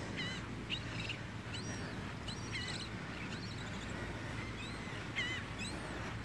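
Small birds chirping, a dozen or so short, sharp calls that sweep up and down, over a steady low background rumble.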